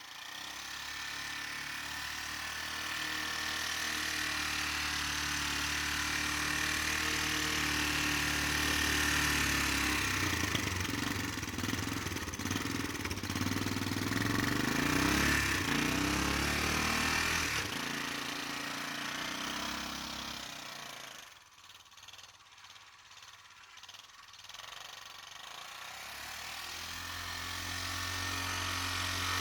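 ATV (four-wheeler) engine running under changing throttle while plowing snow. Its pitch climbs and wavers in the middle, drops away to a much quieter level about three-quarters of the way through, then builds up again near the end.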